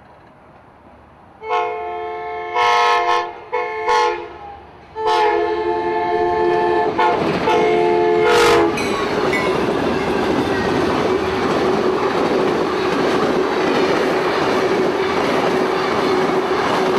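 Amtrak passenger train led by North Carolina DOT locomotive NC1792 sounding its multi-note chime horn in four blasts (long, long, short, long), the grade-crossing signal. The horn cuts off and the train passes close by, with a loud steady rush of wheels and cars on the rails.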